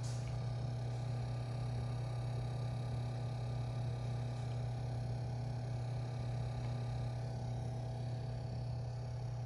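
Steady low machine hum with a few fainter steady tones above it, unchanging throughout, and a brief click right at the start.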